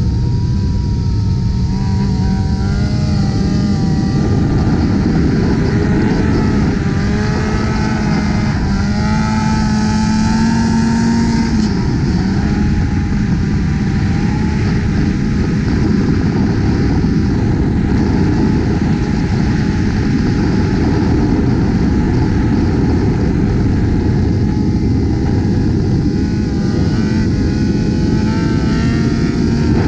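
Motorcycle engines running at highway speed, their pitch rising and falling as the riders work the throttle, over a steady rush of wind and road noise.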